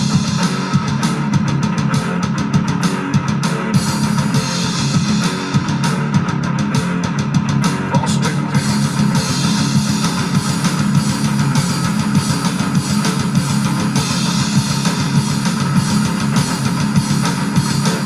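Live rock band playing an instrumental passage: electric guitar, bass and a drum kit with frequent cymbal hits, loud and steady throughout.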